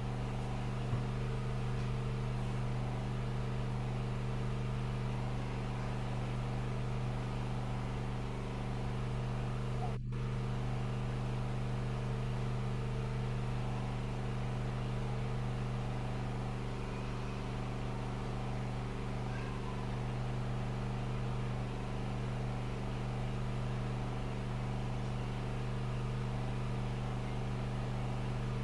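A steady low mechanical hum with several constant overtones, which drops out for an instant about ten seconds in.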